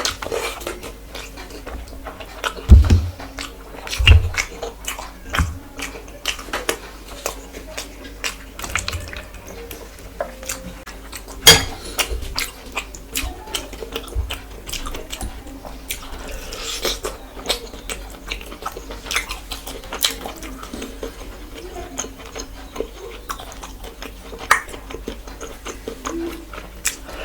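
A person chewing and eating rice and curry by hand: many small wet smacks and clicks, a few dull knocks in the first few seconds, and one sharp click about eleven seconds in.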